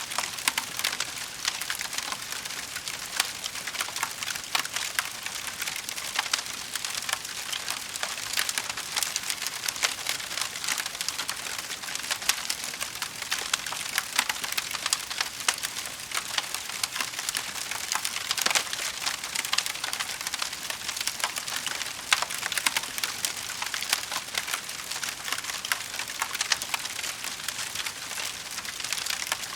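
Wood fire crackling in a fireplace: a steady stream of small pops and snaps over a soft hiss.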